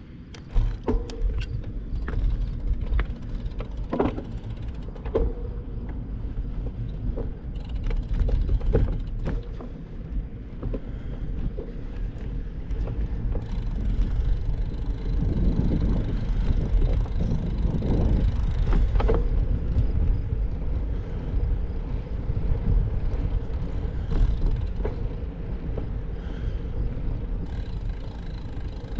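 Bicycle ride with a steady low rumble of wind on the microphone and tyre noise, broken by scattered clicks and knocks from the bike over the road. It gets louder for a few seconds in the middle.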